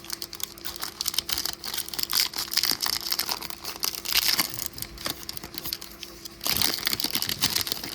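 Plastic foil wrapper of a trading card pack crinkling as it is torn open, a dense crackle that gets louder near the end.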